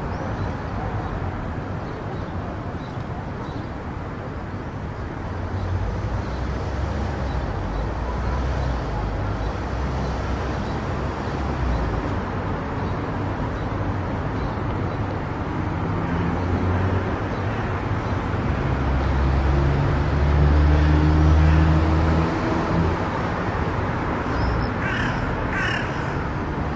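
Car driving on a highway: steady road and tyre noise with a low rumble that swells and peaks about three-quarters of the way through. Near the end there are a few short, harsh squawks, like a crow cawing.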